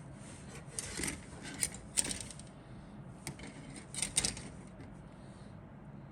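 Handling noise from a plastic model kit: a handful of short clicks and rustles as parts and bags are moved about, loudest about two and four seconds in, over a steady low hum.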